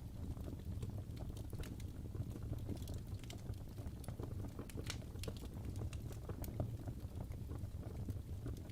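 Wood fire burning in a fireplace: a low steady rumble of the flames with irregular crackles and sharp pops from the burning logs.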